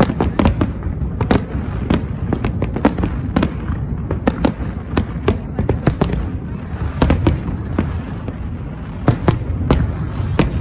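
Fireworks display going off: a rapid, irregular run of sharp bangs and crackles over a continuous low rumble.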